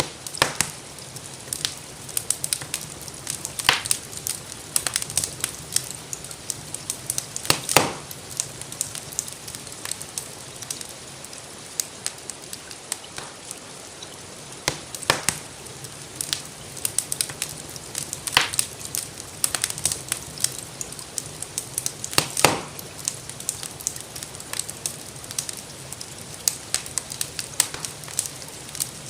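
Wood fire crackling in a fireplace: many small snaps with a few louder pops every few seconds, over a steady hiss of gentle rain.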